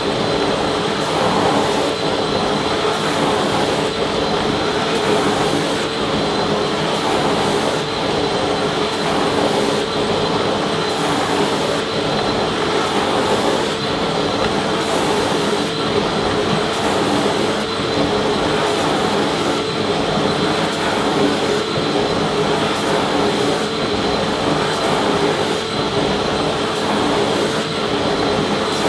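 Vacuum cleaner running steadily: a constant rushing whir with a steady motor hum and a faint high whine, unchanging throughout.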